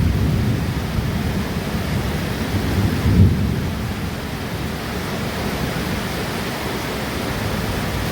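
Steady heavy rain with thunder, low rumbles swelling at the start and again about three seconds in.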